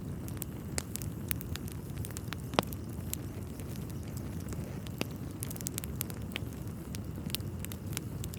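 Wood fire in a fireplace crackling, with scattered sharp pops over a steady low rumble; one louder pop comes about two and a half seconds in.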